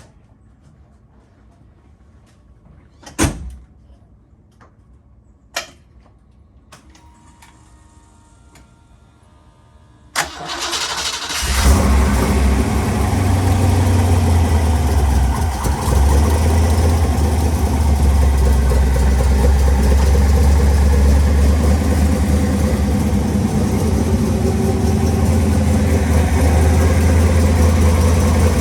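Two sharp clicks and a faint whine, then the 1933 Factory Five hot rod's V8 cranks briefly and catches about ten seconds in. It settles into a loud, steady, deep idle: a cold start after sitting for a week.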